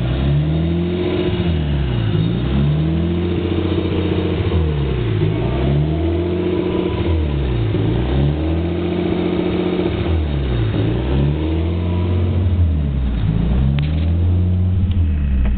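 Nissan RB20DET turbocharged inline-six idling roughly, with a regular rise and fall about every one and a half seconds. The cause of the rough idle is unknown to the owner. A few sharp ticks come near the end.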